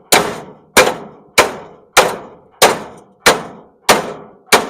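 Hammer blows on the metal of a scrap electric stove, busting a part loose instead of unbolting it: eight evenly spaced strikes, about one and a half a second, each ringing briefly.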